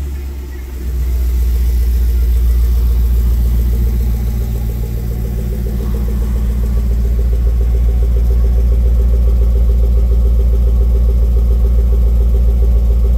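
2020 Jaguar F-Pace SVR's supercharged 5.0-litre V8 idling a couple of minutes into its cold-start warm-up. It swells about a second in, then holds a steady, deep idle.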